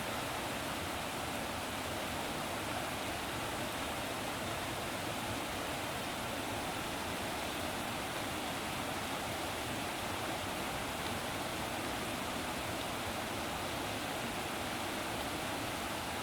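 Steady rushing of running water, an even hiss that holds level throughout with no breaks or swells.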